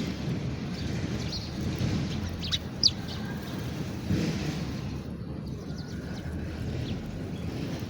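House sparrows giving a few short, high chirps, clustered about two and a half to three seconds in, over a steady low background rumble.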